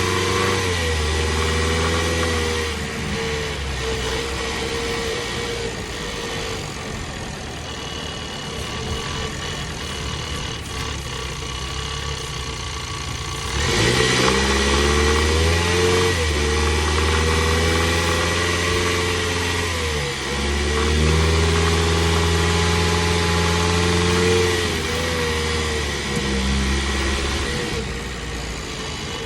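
2022 Ford Bronco's 2.3-litre turbocharged four-cylinder engine running, its pitch rising and falling several times and getting louder about halfway through. A thin high whine sits above it for a few seconds just before the rise.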